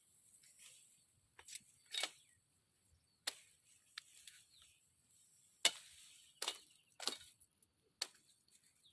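A blade chopping into wood, about seven sharp irregular strikes, with a faint steady high insect drone underneath.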